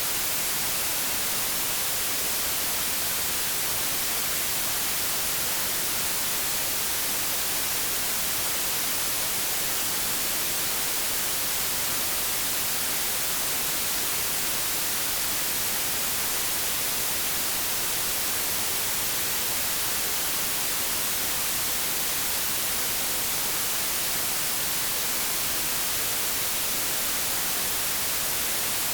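Steady white noise static, an even hiss with no change in level and most of its energy in the high end, like an untuned TV or radio.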